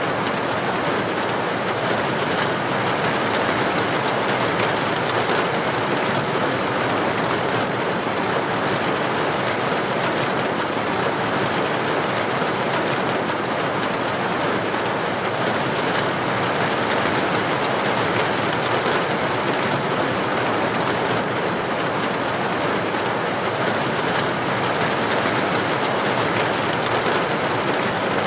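Heavy rain falling on a street, a steady, dense hiss with no breaks or thunderclaps.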